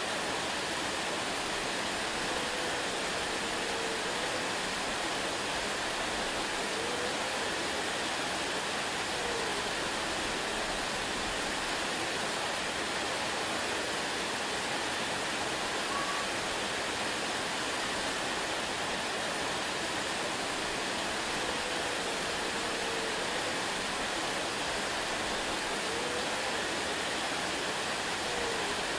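Waterfall: a steady, even rush of falling water. A few faint, short whistle-like glides sound beneath it.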